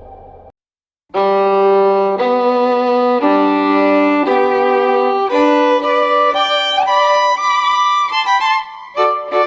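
Background music: the previous track fades out, a brief silence follows, then a violin melody of held notes begins about a second in.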